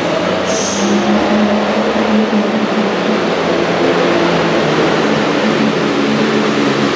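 Super farm class pulling tractor's turbocharged diesel engine running hard under full load, a loud, steady drone.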